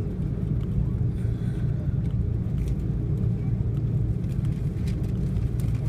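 Airbus A330-300 cabin noise: a steady low rumble of the jet engines and airflow, with faint scattered rattling clicks from the cabin fittings.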